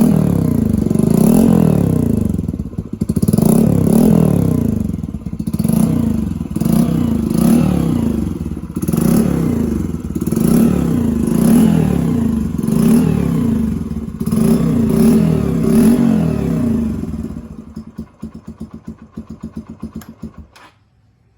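Yamaha XTZ 125's single-cylinder four-stroke engine breathing through an SC-Project aftermarket muffler, blipped over and over, a dozen or so quick revs about a second apart, each rising and falling in pitch. Near the end it drops back to an uneven, choppy idle.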